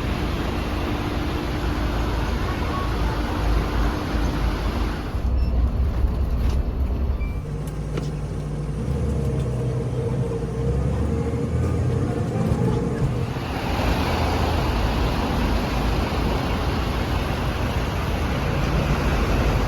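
Road traffic noise: a steady rumble of passing vehicles with engine hum, getting louder and hissier about two-thirds of the way through.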